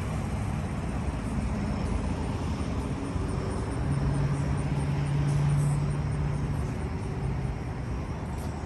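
Steady outdoor background noise with a vehicle engine running; a low, steady hum stands out for about three seconds in the middle.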